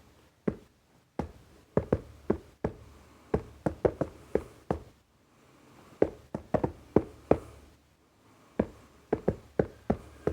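Fingers tapping on a mobile phone box, irregular runs of quick hollow taps with short pauses between them.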